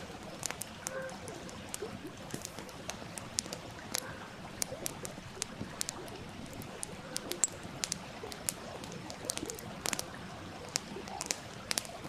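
Wood fire crackling, with irregular sharp pops several times a second, over the steady rush of a flowing stream.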